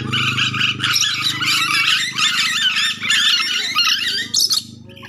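Nuri dora, a Sulawesi lory, chattering and squawking in a rapid, continuous stream of shrill warbling calls that breaks off near the end. A steady low hum runs underneath, loudest at the start.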